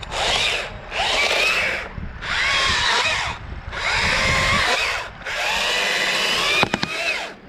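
Battery-powered Stihl MSA 161 T top-handle chainsaw cutting in five short bursts, its electric motor whine sagging and recovering in pitch as the chain loads up in the wood. A few sharp clicks follow near the end.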